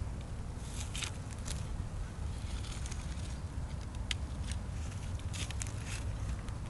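Irregular sharp crackles and snaps of dry brush or twigs over a steady low rumble.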